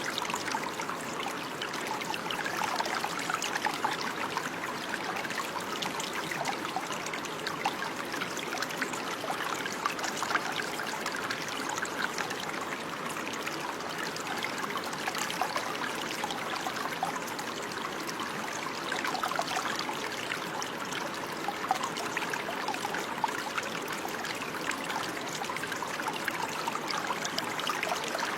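Running water trickling and splashing steadily like a small stream, a dense, even patter of many small drops and ripples.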